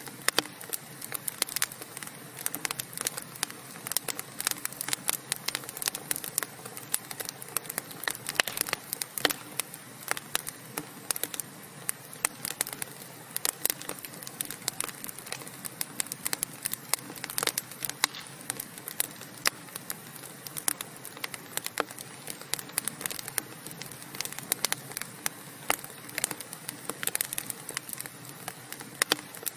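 Burning wood fire crackling and popping: many sharp, irregular snaps over a steady hiss of flame.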